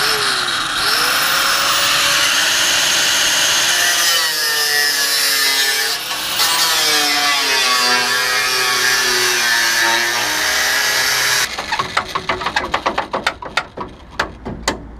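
Power tool, most likely an angle grinder with a cutting disc, cutting through the steel front dumb iron of a Land Rover Series III chassis. The motor's pitch dips and recovers as the disc bites, and it runs loud and steady for about eleven seconds before cutting off. A quick irregular series of sharp clicks and knocks follows.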